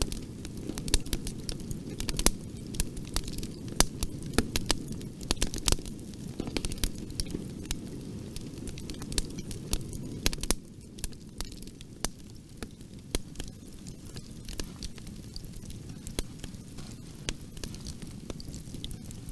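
Wood fire crackling in a fireplace: irregular sharp pops and snaps over a low steady rumble of the flames, the pops thinning out a little about halfway through.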